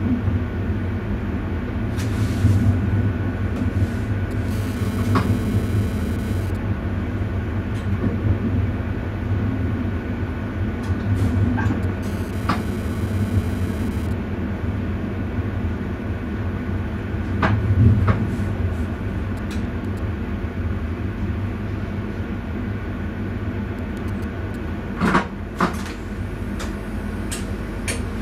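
Passenger train running on track, heard from inside the driver's cab: a steady low rumble with scattered clicks and knocks, and a few sharper clicks near the end.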